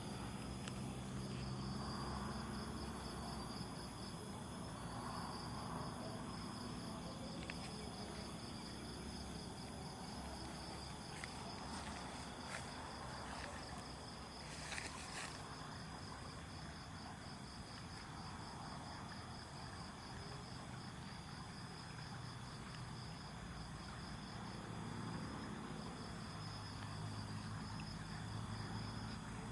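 Night insects chirping in a steady, rapidly pulsing high trill, with a low hum underneath and a few faint clicks about halfway through.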